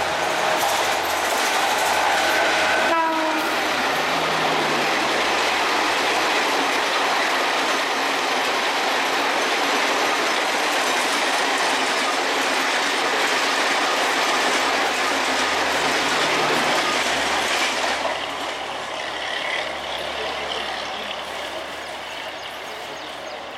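Indian Railways WCAM-3 electric locomotive sounding its horn as it approaches, the pitch dropping about three seconds in as it passes. Then the express coaches roll by in a loud, steady rush of wheel noise on the rails, fading after about eighteen seconds as the train moves away.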